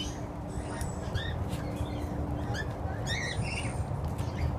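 Several small birds chirping in short, scattered calls, each quickly falling in pitch, over a steady low background rumble.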